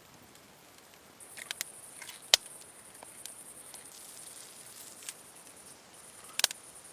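Outdoor woodland ambience: a steady high-pitched buzz that starts about a second in and breaks off briefly near the end, with a few sharp clicks or snaps. The loudest click comes a little over two seconds in, and another comes near the end.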